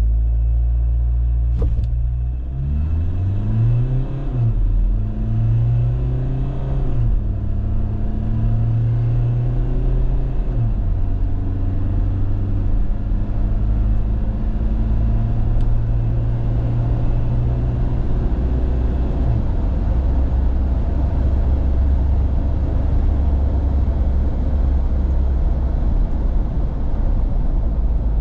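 Mahindra Scorpio's 2.2-litre turbo-diesel four-cylinder accelerating hard from a standstill through its six-speed automatic, the engine note climbing and dropping back at three upshifts in the first ten seconds or so. It then settles into a steady drone over road rumble, easing off slightly near the end.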